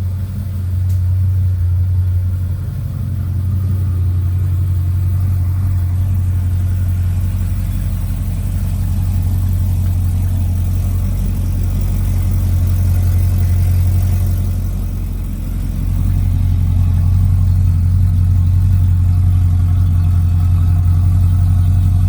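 2010 Corvette ZR1's supercharged 6.2-litre V8 running at a steady idle, its exhaust note low and even.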